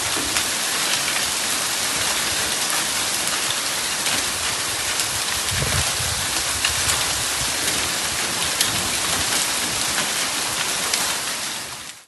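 Heavy rain with hail: a dense, steady hiss dotted with many sharp clicks of hailstones striking. It fades out near the end.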